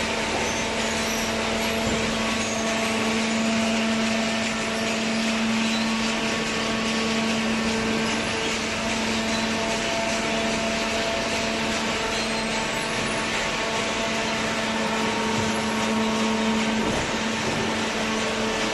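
Automatic horizontal hydraulic baler running: a steady machine hum with a held low tone over a constant hiss.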